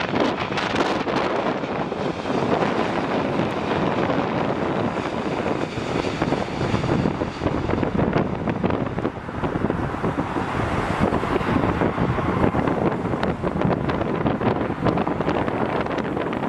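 Strong gusty wind buffeting the microphone, a loud rushing, rumbling noise that flutters unevenly.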